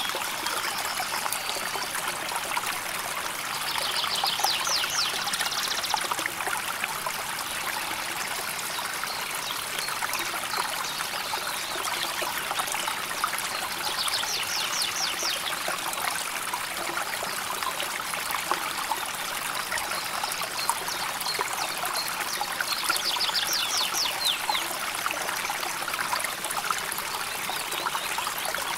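A shallow river or stream flowing and trickling steadily. Three times, a short, rapid, high-pitched trill, probably from a bird, rises above the water.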